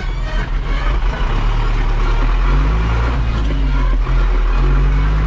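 A vehicle's engine running under way on the road. Its pitch rises about halfway through as it speeds up, drops briefly, then holds steady.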